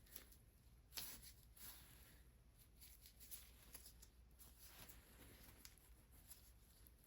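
Faint, soft rubbing of hands massaging feet: irregular quiet strokes of skin against skin, the clearest about a second in.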